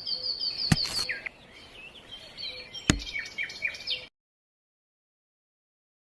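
Small bird chirping in quick repeated high notes, with two sharp taps, one under a second in and one near the three-second mark. The sound cuts off abruptly into total silence for the last two seconds.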